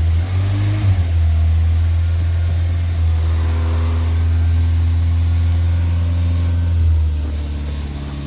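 Renault 5's carbureted C2J four-cylinder engine running just after a cold start on choke: its speed wavers in the first second, holds a steady fast idle, then sags lower and quieter about seven seconds in, as if it might stall.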